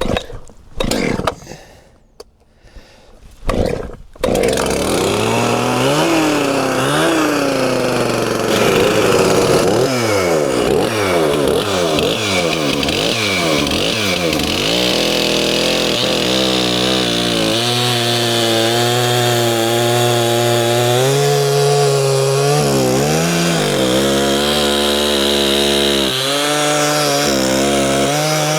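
Chainsaw starting up about four seconds in and revved up and down several times, then held at high speed with its pitch dipping now and then.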